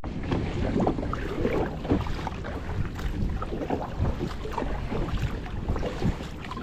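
Water lapping and splashing against a kayak, with many small irregular splashes and knocks, and wind rumbling on the action camera's microphone.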